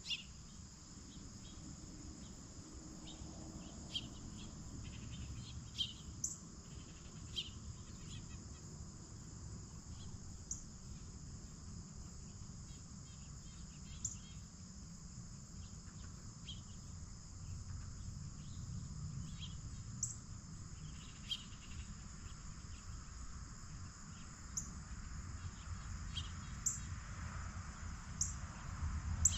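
Steady chorus of crickets and other insects, a continuous high trill, with scattered short clicks every few seconds over a low background rumble.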